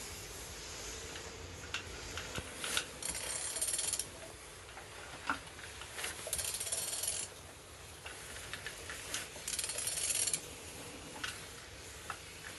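Renault M9R diesel engine being turned over by hand with a ratchet wrench: scattered clicks and knocks, with three runs of fast ratchet clicking, each about a second long and about three seconds apart. The engine turns freely, the sign that it is not seized.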